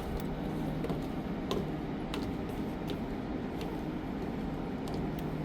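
Steady low rumble of harbour ambience with a constant mechanical hum, broken by scattered light clicks.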